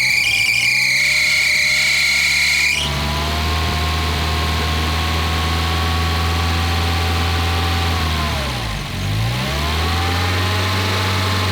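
Volvo B230FK turbocharged four-cylinder engine running at a steady speed. A high squeal over it cuts off suddenly about three seconds in. Near the end the revs dip briefly and come back up.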